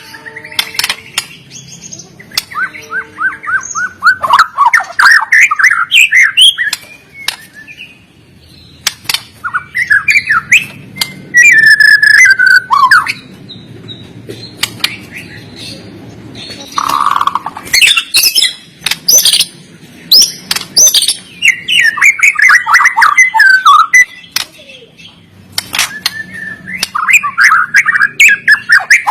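White-rumped shama (murai batu) singing in a vigorous, continuous fighting style: rapid whistled and chattering phrases a few seconds long, broken by short pauses and studded with sharp clicking notes.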